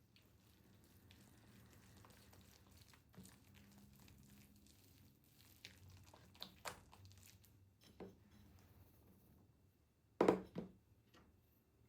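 Faint kitchen handling sounds: scattered light knocks and rustling, with two sharper knocks close together about ten seconds in.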